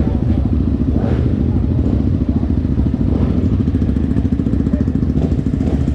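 Single-cylinder trail motorcycle engine, a 300cc Honda Tornado, running steadily with a fast, even low pulsing.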